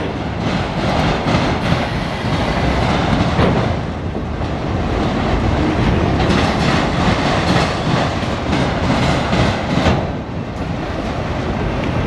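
CSX autorack freight train rolling past close by: a steady, loud rumble of steel wheels on rail, with repeated clicking as the wheels cross rail joints.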